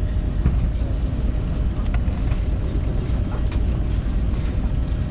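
Steady low rumble of cabin noise inside an Airbus A350-900 during pushback, with a faint steady hum and a few small scattered clicks.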